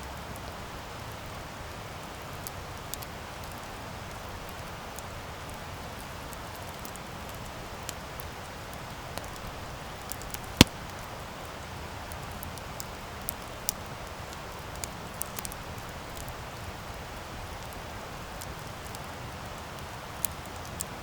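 Wood campfire crackling steadily with scattered small pops and snaps, and one sharp, loud pop about halfway through.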